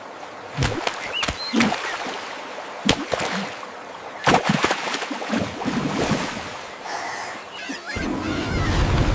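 Water splashing and sloshing, with several sharp splashes and a deeper rumble near the end.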